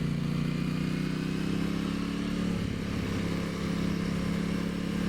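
Aprilia Tuono 660's parallel-twin engine running at fairly steady revs under way, over a steady rush of riding noise; the engine note eases slightly about halfway through.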